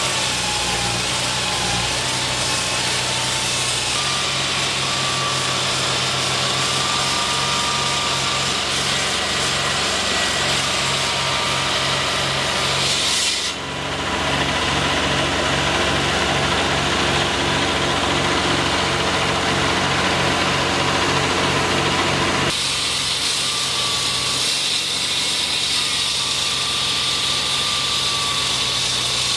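Engine-driven construction machinery running steadily, with a low pulsing hum under a hiss. It drops out briefly about halfway through, and the sound changes abruptly a little later.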